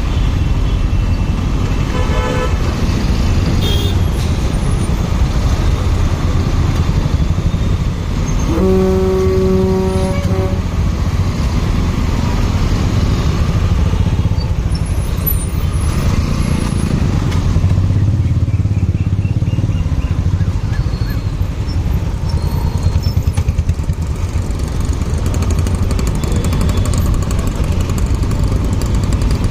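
Motorcycle riding in traffic, its engine and road noise running steadily. Vehicle horns sound over it: short beeps about two seconds in and a longer horn blast at about nine seconds.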